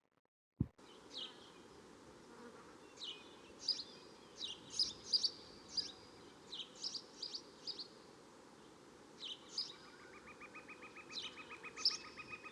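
Birds chirping outdoors, many short high calls that drop in pitch, with a rapid pulsing trill setting in near the end, over a faint steady hiss of ambience. A single sharp click comes just after the start.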